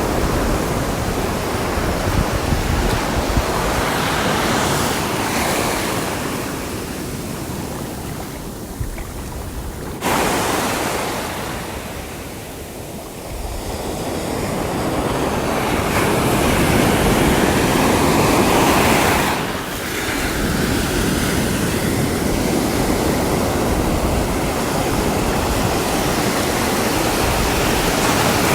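Sea waves breaking and washing on the shore, swelling and falling back, loudest a little past the middle. Wind rumbles on the microphone.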